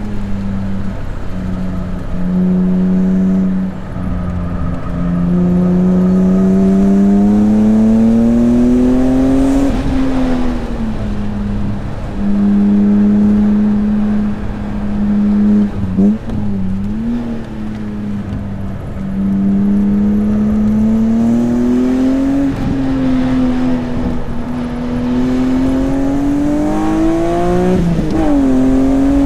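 BMW S54 inline-six in an E36 M3 running hard at track pace. The engine note climbs steadily under acceleration several times and falls back sharply when the throttle comes off, with a quick dip and jump in pitch about halfway.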